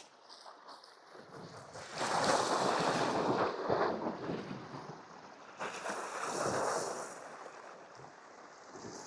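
Sea waves washing against shore rocks: two surges of a couple of seconds each over a low steady wash of surf.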